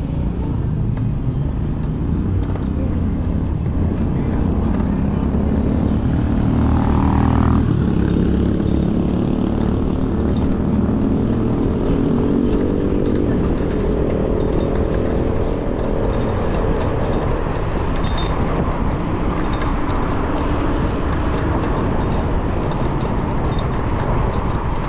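Wind rushing over the microphone and road and traffic noise while riding an electric bicycle through city streets. From a few seconds in until past the middle, a nearby motor vehicle's engine is heard, rising slowly in pitch as it accelerates.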